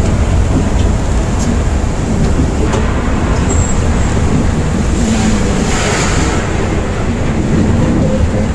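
A Volvo B8R coach running on the highway: a steady low engine and road rumble with hiss from the tyres. The hiss swells briefly around the middle.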